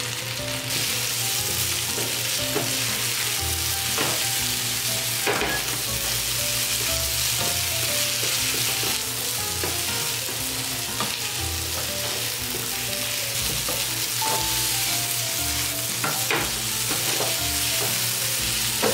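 Marinated pork with sliced onion and green chili sizzling steadily in an oiled frying pan over high heat. It is tossed with a wooden spatula that scrapes and knocks against the pan now and then.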